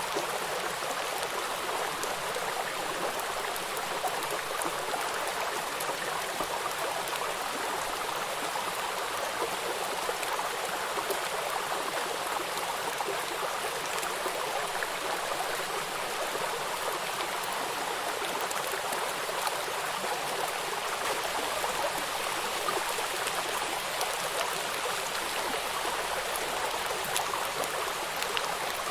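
Steady flowing river water with rain falling on it, small drops ticking here and there through the rushing water.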